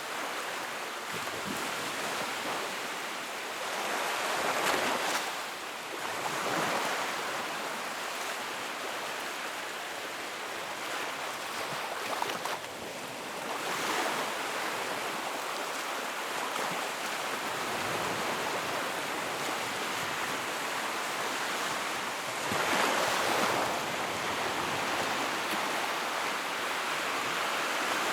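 Wood fire burning in a fireplace: a steady rushing hiss that swells and eases every few seconds, with a few light crackles.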